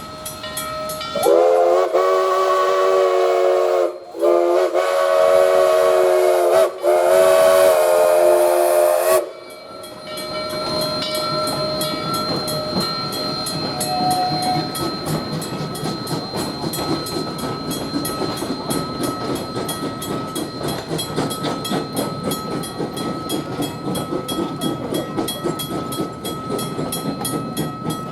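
Steam locomotive whistle blowing three long blasts, then the train's steady hiss and rumble as it passes the grade crossing, with the crossing bell ringing throughout.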